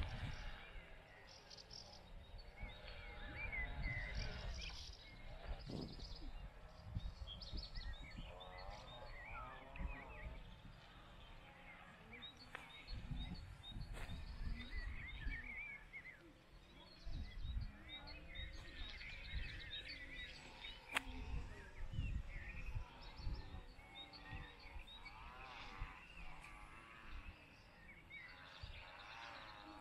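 Songbirds chirping and singing on and off, over low, uneven rumbles and knocks, such as wind on the microphone or handling noise.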